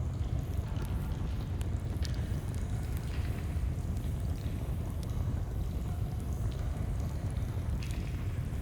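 Continuous low rush of a flowing stream, with scattered crackles and pops of a campfire over it.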